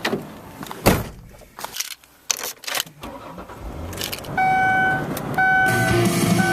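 A car being got into and started: a few knocks and clicks of doors and keys, then a warning chime beeping about once a second from about four seconds in, with the engine starting and running underneath near the end.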